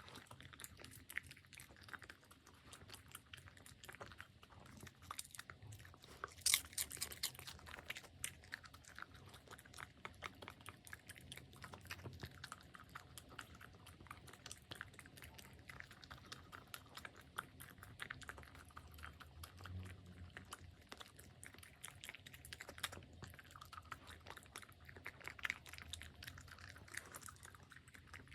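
A puppy chewing and crunching its food: a steady run of quick, crisp clicks and crunches, with one louder crunch about six seconds in.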